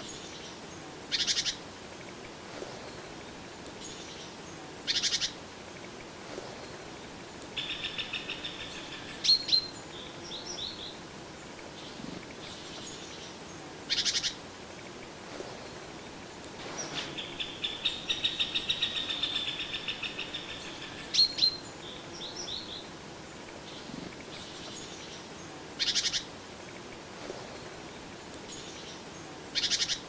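Songbirds in the woods: short noisy calls every few seconds, and two trilled songs of fast repeated notes that each end in a quick falling flourish.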